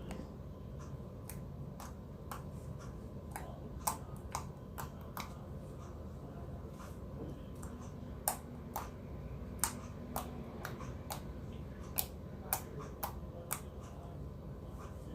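Glossy slime being squeezed and poked, making irregular sharp clicks and pops about one or two a second over a steady low hum.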